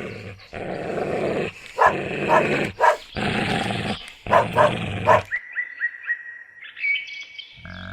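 A dog growling and barking, with a rough growl broken by short sharp barks, a pair of barks about two seconds in and three more around four to five seconds. The dog stops about five seconds in, leaving faint high chirps, and a deeper animal call begins just at the end.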